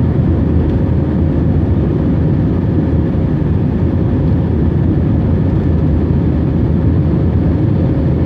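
Airbus A321-231 jet engines (IAE V2500 turbofans) running, a steady deep rumble with a constant hum tone above it and no change in pitch or loudness.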